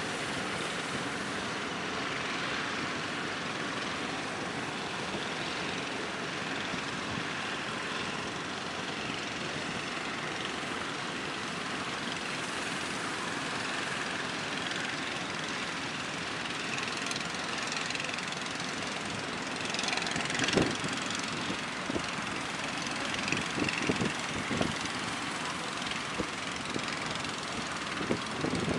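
Steady drone of small fishing boats' engines mixed with the rush of strong wind and waves. Several sharp knocks come in the last third.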